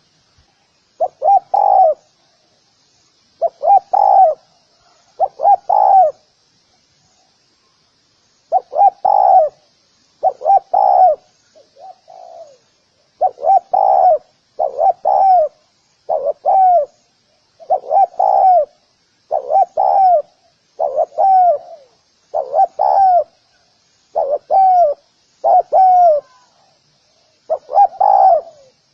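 Spotted dove cooing: short phrases of two or three soft, arched coos repeated every second or so, with a gap of a couple of seconds after about seven seconds. A faint high steady buzz lies behind the calls.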